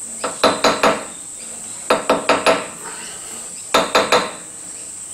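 Light taps from a hand-held bar on a cast-iron flywheel casting held in a lathe's four-jaw chuck, nudging it true while it is clocked with a dial indicator. The taps come in three quick bursts of three or four, each a short metallic knock with a brief ring, over a steady high whine.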